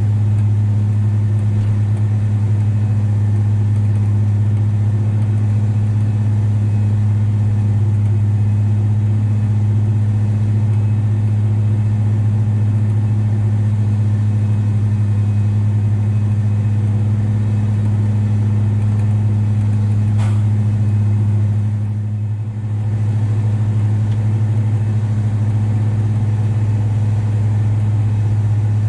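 Valtra T234 Direct tractor's six-cylinder diesel engine running at a steady, constant speed with a strong low drone. It eases briefly about 22 seconds in, then holds steady again.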